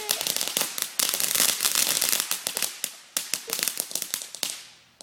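Fireworks finale crackling: a dense, rapid run of small pops and cracks that thins out and dies away near the end.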